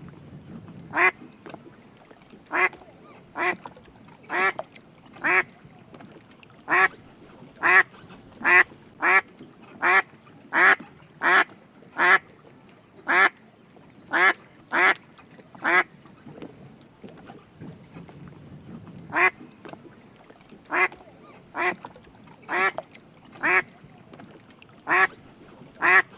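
A duck quacking over and over in short single quacks, roughly one a second, with a pause of a few seconds about two-thirds of the way through.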